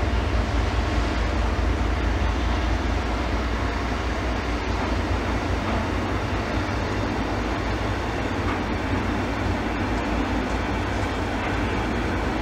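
Freight train of loaded flatcars rolling steadily past on the track, wheels running on the rails, over a deep continuous rumble.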